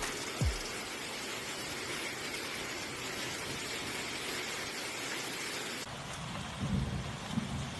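Heavy rain pouring steadily as a dense hiss, during a storm with hail and strong wind. About six seconds in the sound changes abruptly and low bumps come in.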